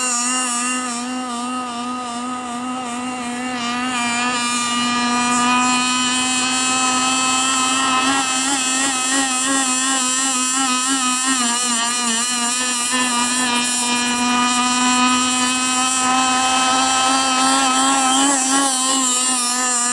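RC catamaran's two-stroke gas engine (RCMK) running at high speed on the water: a loud, high, steady engine note whose pitch wobbles quickly up and down.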